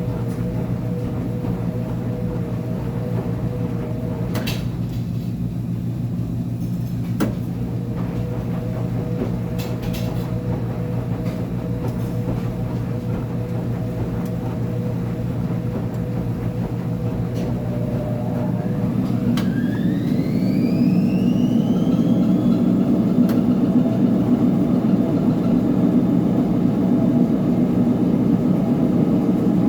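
Uni-Mac UniMat 35 commercial washing machine running with a steady hum and a few clicks. About two-thirds through, a rising whine sets in as its drive motor speeds up, and the machine runs louder from then on.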